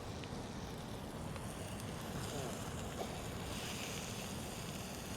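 Steady rushing wind and surf, with gusts buffeting the microphone.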